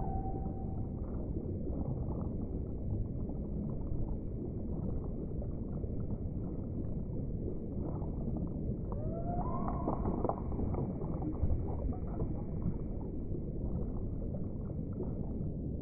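Underwater deep-ocean ambience: a steady low rumble, with whale calls, a held call ending in the first second and a call rising in pitch about nine seconds in.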